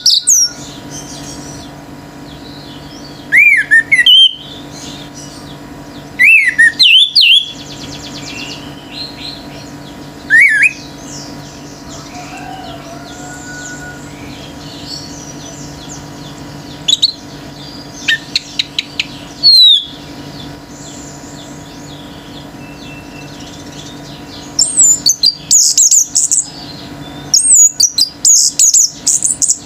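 An orange-headed thrush singing in loud bursts of rapid sweeping high notes, separated by pauses of a few seconds and growing denser near the end. Fainter chirps of other birds sound between the bursts, over a steady low hum.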